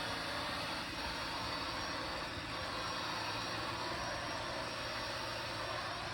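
Robot vacuum cleaner running with a steady whirring hum.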